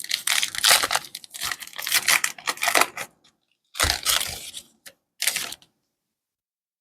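Trading-card pack wrapper being torn open and crinkled, in a run of crackling rips for about three seconds, then two shorter crinkles before it goes quiet.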